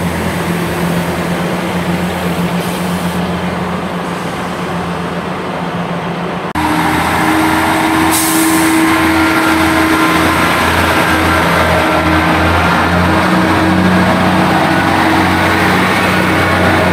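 Diesel multiple-unit engines. First a Class 165 Turbo pulls away, its engine note steady and slowly fading. About six and a half seconds in, the sound jumps abruptly louder to another diesel unit running close by with a steady whine, with a brief hiss about eight seconds in.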